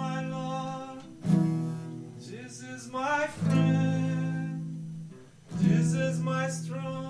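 Acoustic guitar strumming chords, each chord struck and left to ring out, a new one roughly every two seconds.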